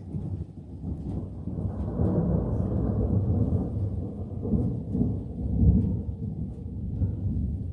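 Rolling thunder: a long low rumble that swells to its loudest about halfway through and then rolls on.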